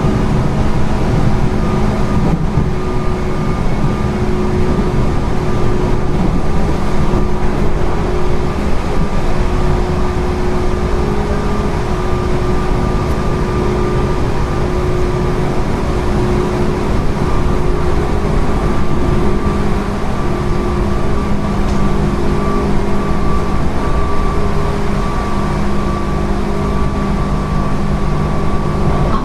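Running sound inside a JR 205 series electric train at steady speed: traction motor and gear whine held at a constant pitch over steady wheel and track rumble.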